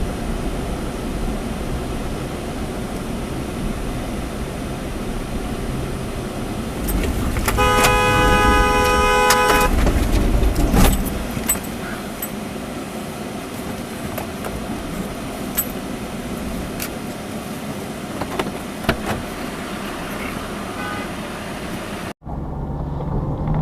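Car horn blown in one steady blast of about two seconds over constant road and engine noise, followed about a second later by a sharp knock and a few lighter clicks.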